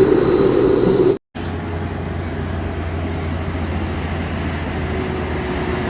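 Truck diesel engine noise that cuts off abruptly just after a second in, followed by a steadier, lower engine drone.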